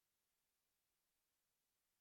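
Silence: digital near silence with only a faint, even hiss.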